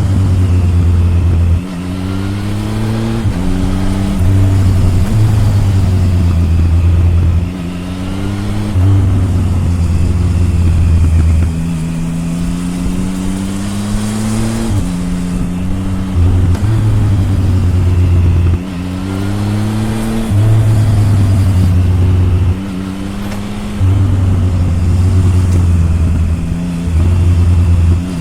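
Triumph Tiger 1050's inline-three engine heard at the exhaust, rising in pitch again and again under acceleration and dropping back as the throttle closes or gears change, a cycle every two to four seconds.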